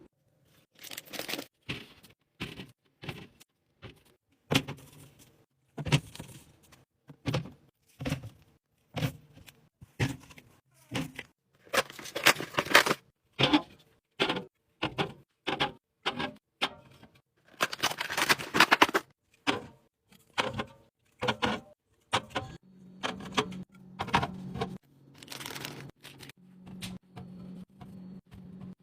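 Drink cans and bottles being handled and set down while a fridge is restocked: a run of irregular sharp clicks and clinks, one or two a second, with two longer rustling stretches like packaging being torn open. A low steady hum comes in near the end.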